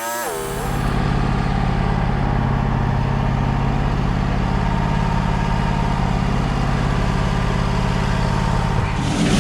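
Portable sawmill engine idling steadily with a low, even hum; it grows louder and rougher near the end.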